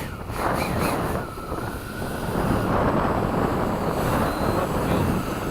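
Freewing F-22 RC jet's twin 90 mm electric ducted fans running at power with a steady whine, under heavy wind noise on the microphone.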